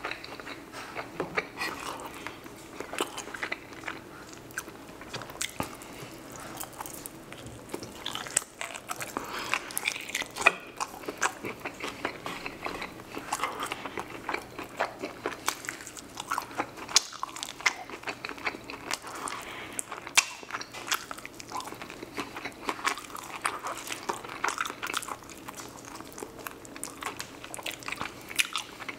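Close-miked chewing and biting of a bone-in chicken wing: wet mouth smacks and many short, irregular clicks.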